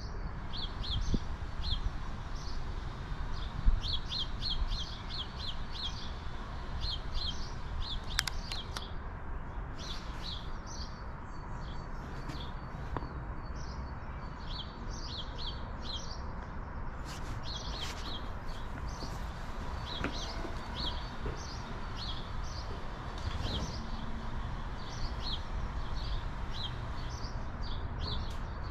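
Small songbirds chirping in quick repeated series of short high notes, over a steady low background rumble.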